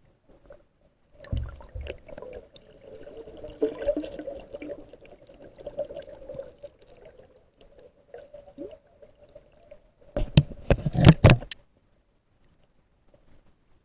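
Muffled underwater burbling of water and bubbles, then a quick run of loud, sharp clicks and knocks lasting about a second, starting about ten seconds in.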